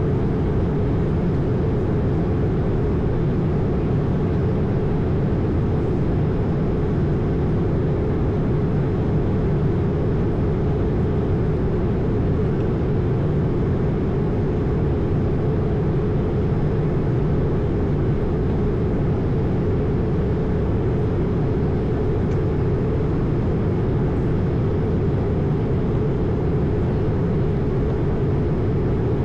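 Steady in-flight noise inside an Airbus A220: the low rush of airflow and the drone of its Pratt & Whitney PW1500G geared turbofans in cruise or descent, unchanging throughout.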